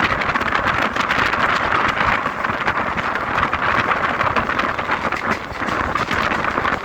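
Mumbai suburban local train running on its track: a steady loud rush of running noise with rapid clicking from the wheels on the rails, and wind on the microphone.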